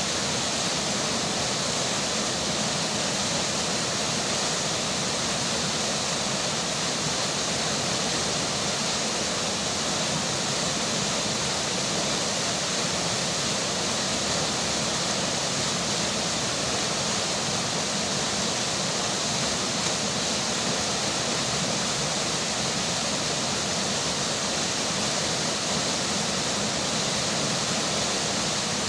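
Steady rush of rain falling over a flowing river, an even hiss without change.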